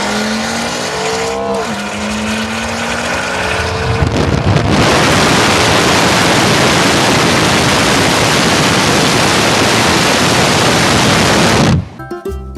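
A tuned car engine revs, its pitch rising and falling. Then, for about seven seconds, a loud, even rush of noise without clear pitch, which cuts off suddenly near the end.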